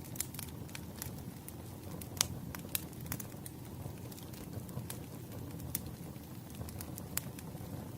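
Wood fire crackling: irregular sharp snaps and pops from burning firewood over a steady low rumble, with a couple of louder pops about two and a half seconds in.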